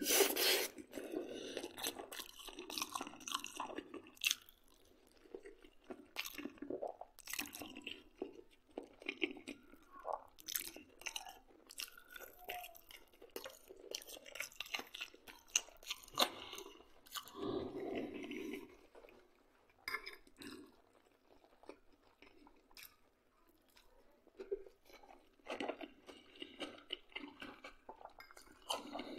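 A man biting and chewing mouthfuls of homemade pork-head sausage, with many irregular short mouth clicks.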